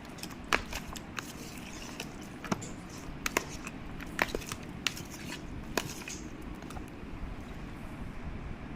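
Raw chicken being mixed with its spice paste in a bowl: irregular clicks and knocks of the pieces and utensil against the bowl, dying away about six seconds in, leaving a low steady room hum.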